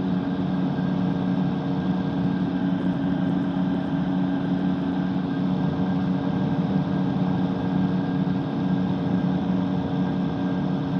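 Microlight trike's engine and propeller droning steadily in flight, at an even, unchanging pitch.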